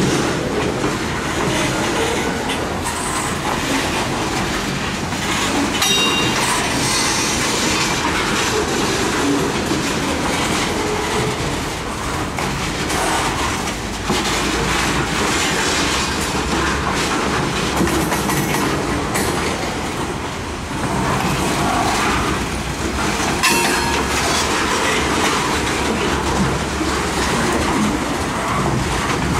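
Freight cars rolling steadily past close by: steel wheels rumbling and clattering over the rail joints, with a couple of brief high-pitched wheel squeals, about 6 and 23 seconds in.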